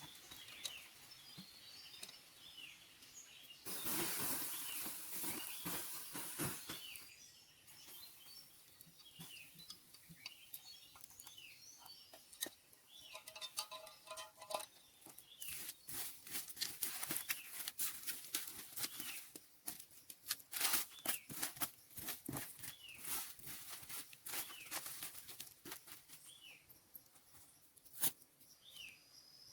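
Rainforest ambience: many short chirping calls throughout, a burst of rustling noise about four seconds in, a brief pitched call about halfway, and many sharp clicks and crackles through the second half.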